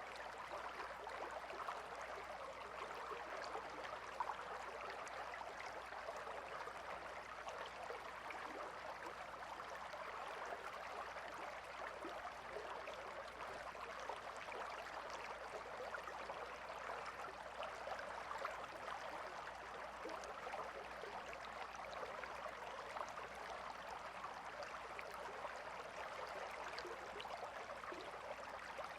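A gently flowing river or stream, a steady even babble of water with small splashing ticks throughout.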